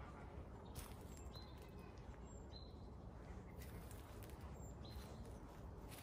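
Faint bird calls: a few short, high chirps spread across the stretch, over a low steady outdoor rumble.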